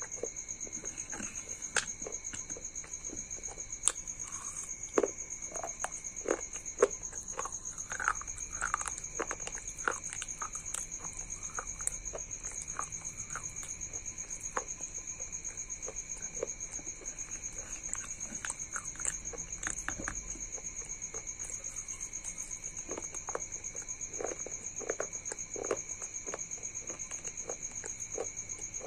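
Close-up eating sounds: crunching and chewing of broken clay diya pieces in white paste, with spoon scrapes and taps against a glass bowl. Sharp, irregular crunches and clicks come throughout, over a steady high-pitched whine.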